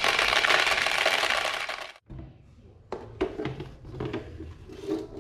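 Many glass marbles clattering together down a wooden marble run in a dense, continuous rattle that cuts off abruptly about two seconds in. After it come a few separate clicks and knocks of marbles on the wooden track.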